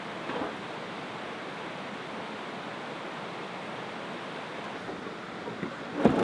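Steady rushing of a small creek running past, with a brief sharp knock right at the end.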